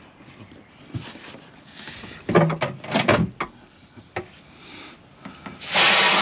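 Scattered knocks and clicks of hands working in a boat's livewell compartment, then near the end a loud, steady rush of water as the bass boat's livewell pumps start up on recirculate.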